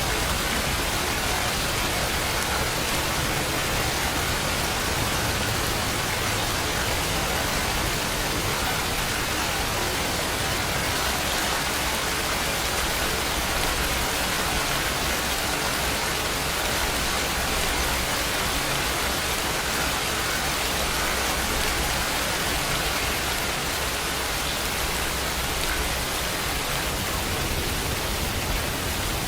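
Steady, continuous rain falling, an even hiss of many drops with no thunder or other events.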